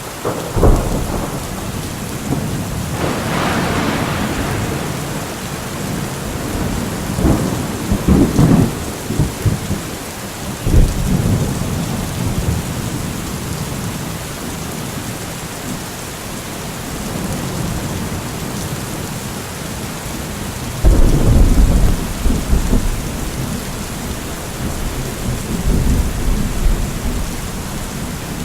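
Steady rain with thunder rumbling and cracking repeatedly: a burst near the start, rolls around 3 to 11 seconds in, and a heavy deep rumble from about 21 seconds in that goes on to the end.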